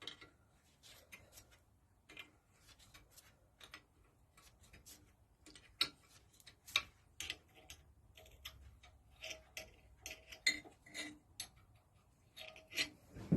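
Irregular light clicks and taps of hand tools and metal parts being handled while dismantling an old stationary engine, some with a short ringing note.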